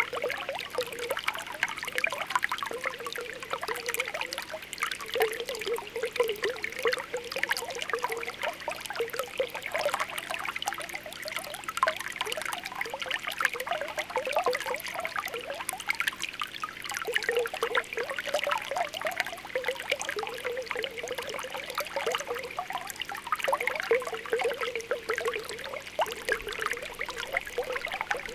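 Spring water welling up from the ground, bubbling and popping continuously with a constant trickle.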